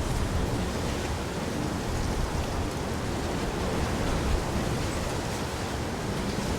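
Steady rain, an even hiss with no separate drops or rumbles standing out.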